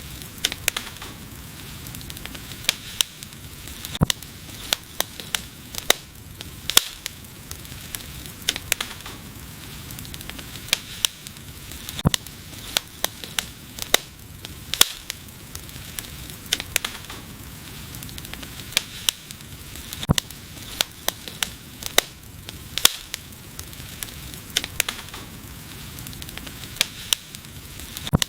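Wood fire crackling, with irregular sharp pops several times a second over a steady hiss of the flames.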